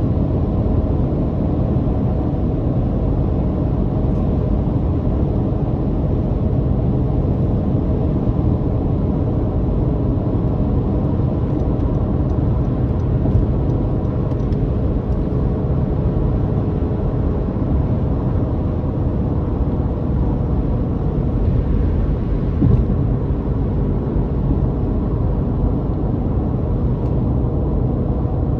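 A car being driven: a steady, droning engine and a low road rumble, with one small click about three-quarters of the way through.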